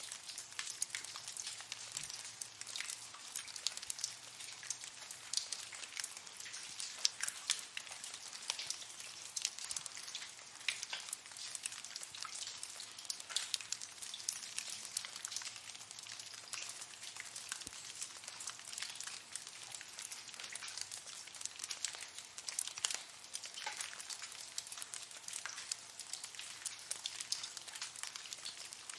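Water dripping in a cave: a dense, continuous patter of many small drops landing, with no pause.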